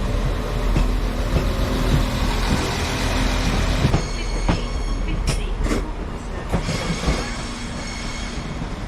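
Transport for Wales Class 197 diesel multiple unit moving along the platform: low running drone with wheels clicking over rail joints. From about four seconds in, a high steady wheel squeal joins it, along with a few sharp clicks.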